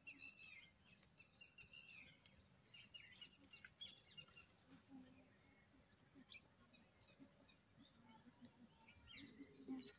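Faint chirping of small birds, on and off, with a louder run of high calls near the end.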